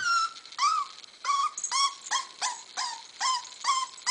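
A seven-week-old puppy whining over and over, about two short high whines a second, each rising and then falling in pitch, as it hesitates to go down a flight of stairs.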